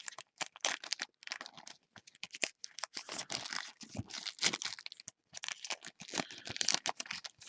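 Baseball card packs being ripped open: the wrappers tear and crinkle in irregular crackles.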